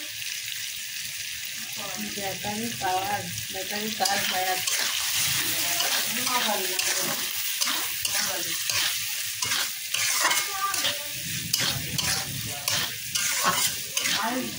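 Fish roe frying in oil in a metal karai and stirred with a metal spatula: a steady sizzle with repeated scraping strokes of the spatula against the pan, coming faster in the second half.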